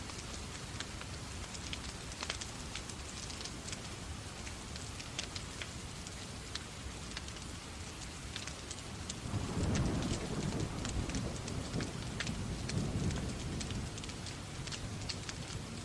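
Steady rain with the sharp, irregular crackle of a wood fire in a fireplace. About nine seconds in, a low rumble swells for a few seconds and then fades back.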